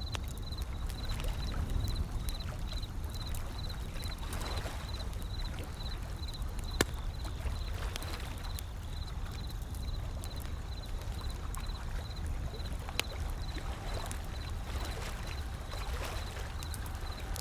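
Wood fire crackling with scattered sharp pops, a loud one about seven seconds in, over the low rumble and wash of gentle ocean waves rolling in. A faint high chirp repeats about twice a second in the background.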